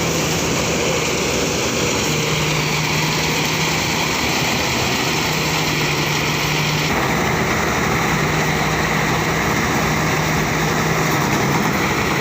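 Rice threshing machine running steadily under load: a loud, continuous mechanical noise from its engine and threshing drum, with a low hum that comes and goes.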